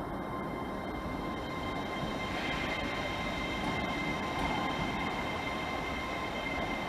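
A train running past at close range: a steady rumble with a thin, steady high-pitched whine over it.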